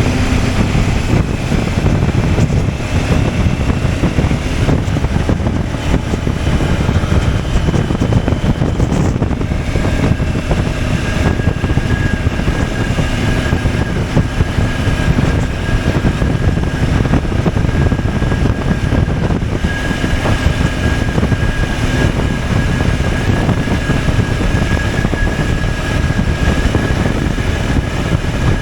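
CFMOTO 800MT's parallel-twin engine running steadily under way, mixed with rumbling wind noise on the camera's microphone.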